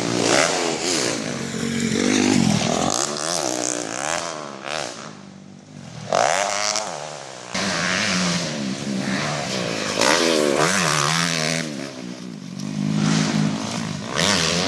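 Motocross dirt bike engines revving and easing off, their pitch rising and falling over and over, with a quieter lull about five to six seconds in.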